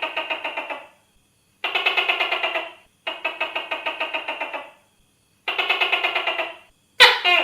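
Tokay gecko calling: four rattling trills in a row, each a fast string of about eight pulses a second lasting a second or so, then a sharper, louder call near the end.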